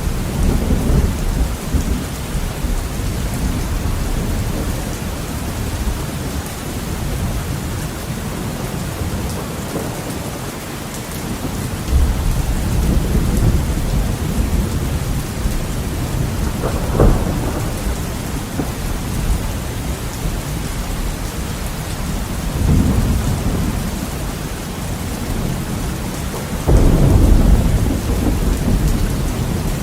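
Heavy rain falling on a window, a steady hiss, with thunder rolling in several times. A sharper clap comes about halfway, and the loudest rumble comes near the end.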